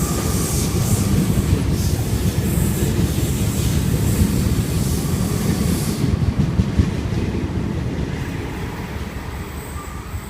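Sydney Trains Waratah electric passenger train running past a platform: a steady rumble of wheels on the track that fades away over the last few seconds as the train leaves.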